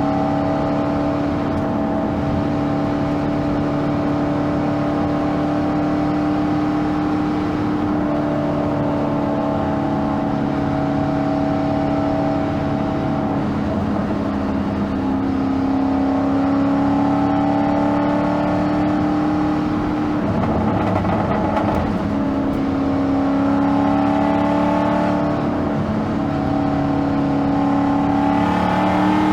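Lexus SC400 drift car's engine running steadily on the road, a constant drone over road noise, its pitch shifting slightly now and then as the speed changes.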